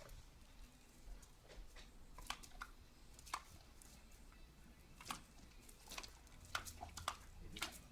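Irregular light clicks and taps, a few each second.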